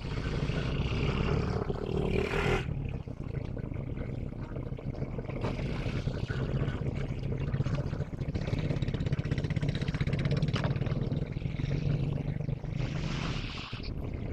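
Diesel locomotive engine running steadily with a low hum, with a hiss over it for the first couple of seconds that cuts off suddenly.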